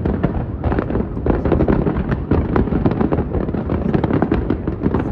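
Fireworks display going off non-stop: a dense, continuous barrage of bangs and crackles with no pause between bursts.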